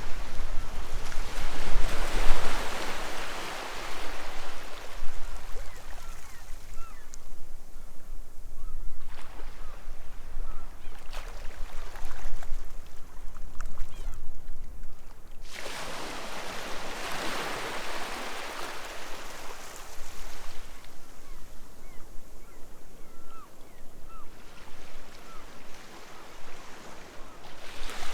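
Sea waves breaking on a beach. Two large surges wash in, one at the start and one about halfway through, and each ebbs away slowly. Faint gull calls are heard in the quieter stretches between them.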